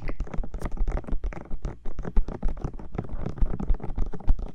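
Fingertips tapping and rubbing on the silicone ears of a 3Dio binaural microphone: a fast, uneven run of close taps, several a second, each with a deep thud.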